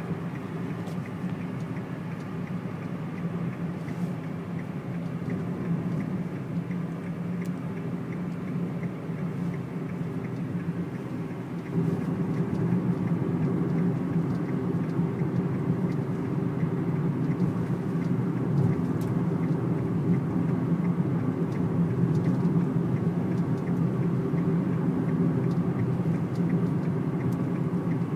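Steady low rumble inside a vehicle driving through a sandstorm: road and engine noise with strong wind pressing on the body, louder from a little under halfway through.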